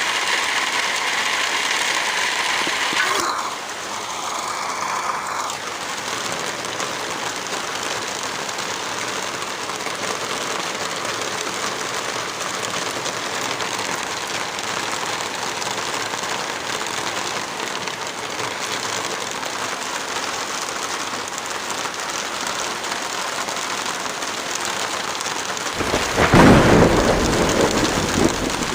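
Heavy rain falling steadily, with a loud low rumble of thunder near the end that swells and fades over a couple of seconds.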